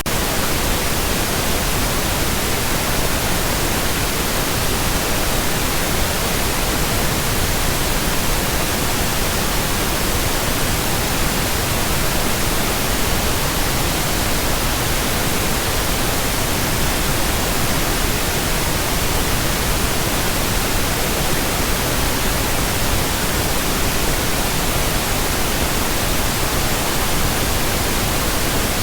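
Steady pink noise: an even, unchanging hiss spread across the whole range, from low rumble to high hiss.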